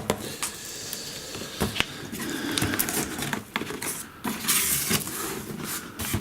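Cardboard box and packaging being handled and opened by hand: rustling and scraping with scattered knocks and clicks, the loudest rustle about three-quarters of the way through.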